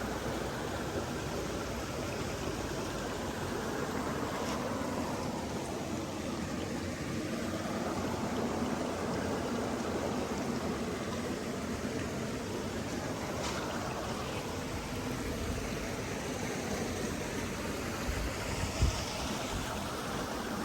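Steady rush of running water, with one short low thump near the end.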